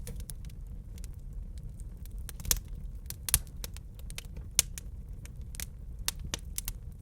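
Wood fire crackling in a fireplace: irregular sharp pops and snaps over a low steady rumble, with a few louder pops about a third and two-thirds of the way through.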